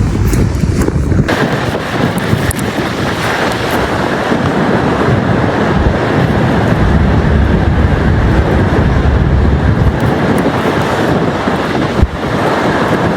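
Strong wind buffeting the microphone: a loud, steady rushing noise, with a change in the sound about a second in.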